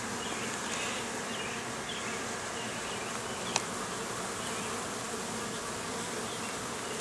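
Honeybees buzzing steadily in a dense, even hum around an opened hive, with a single brief click a little past the middle.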